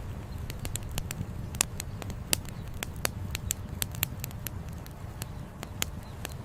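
Campfire crackling: burning wood gives off many sharp, irregular pops and snaps over a steady low rumble.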